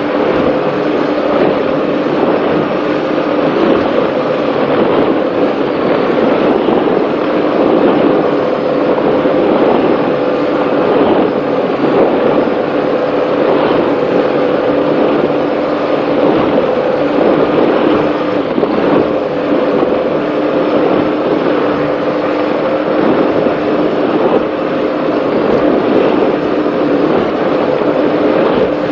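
Offshore racing powerboat's engines running hard at a steady speed, heard on board as a constant drone with two steady tones, over a dense rush of wind and water.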